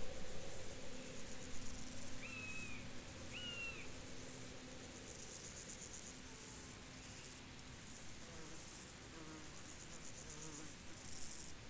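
Field crickets chirping in fast, high-pitched pulsed trains that come and go throughout. About two and three and a half seconds in, a bird gives two short whistled notes.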